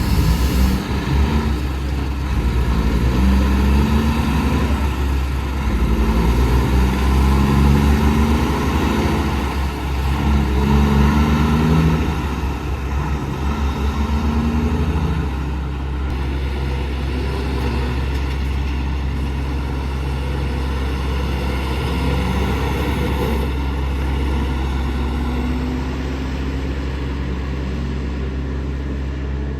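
Road traffic with heavy trucks going by, a steady low engine and tyre rumble. In the first half a truck engine climbs in pitch again and again as it pulls through its gears, then the sound settles to a steadier rumble.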